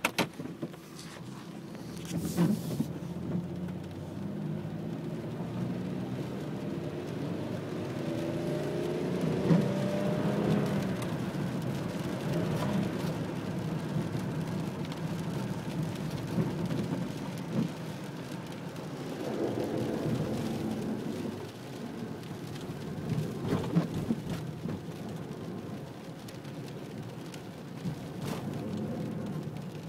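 Rain with a steady low rumble underneath and passing vehicle noise, including an engine tone that rises in pitch about a third of the way in and another about two-thirds in. A few sharp knocks stand out.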